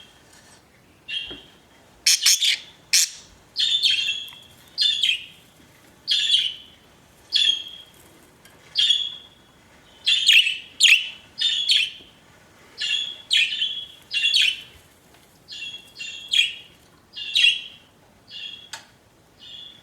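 Pet budgerigars (budgies) chirping: a run of short, sharp calls, about one or two a second.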